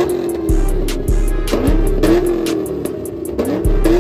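Chevrolet Camaro engine revved hard about three times, each rev climbing quickly and dying away slowly. A hip-hop beat with heavy bass plays over it.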